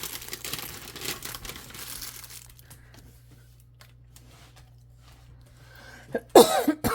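Plastic ration packets crinkling as they are handled, for about the first two and a half seconds. Near the end comes a short, loud, voice-like sound whose pitch slides downward.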